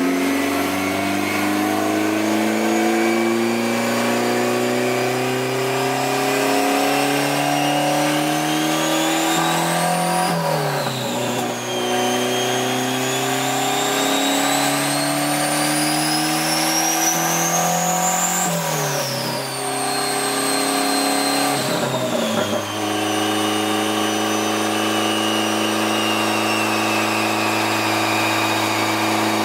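Car engine pulling hard with its pitch climbing steadily, then dropping sharply twice, about ten and nineteen seconds in, as it shifts up a gear. It then settles to a steady, even running speed. A thin high whine climbs and falls with the revs.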